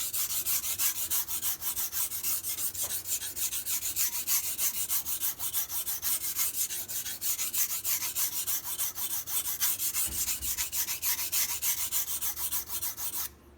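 A MAC chef knife's blade being sharpened on a whetstone in short, quick back-and-forth strokes of steel scraping on stone, about four a second. The scraping stops shortly before the end.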